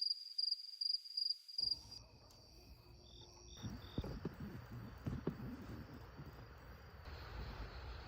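Cricket chirping in an even rhythm, about two and a half high chirps a second, stopping about two seconds in. Then come a few short high chirps and a steady outdoor rush with scattered low thumps.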